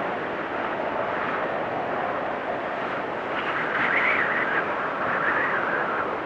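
Snowstorm wind blowing hard and steadily, its pitch wavering, with a higher whistling gust rising about three and a half seconds in.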